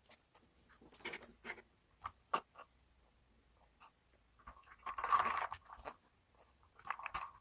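Close-up eating sounds: a crunchy snack being bitten and chewed, with irregular crunches and clicks and a louder crackly burst about five seconds in.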